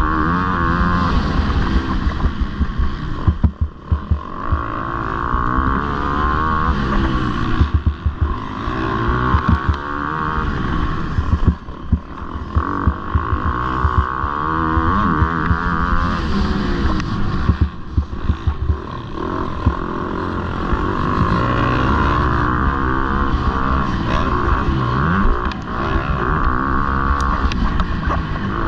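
Motocross bike engines revving hard, pitch climbing and dropping repeatedly as riders open and close the throttle, with a couple of brief throttle-off dips. There is wind noise on the microphone.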